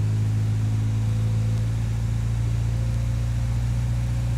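1959 Triumph TR3A's four-cylinder engine running steadily with the revs raised a little, as its oil pressure builds.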